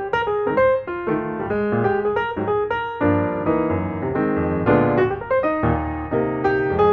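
Background music: piano playing a quick run of notes over a bass line.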